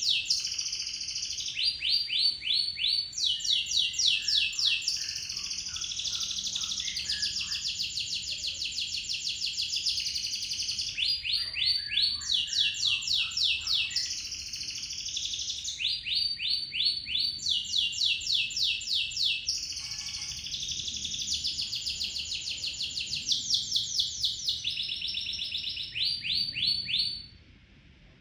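Domestic canary singing a long, unbroken song of fast rolling trills, one rapid run of repeated notes after another. It stops about a second before the end.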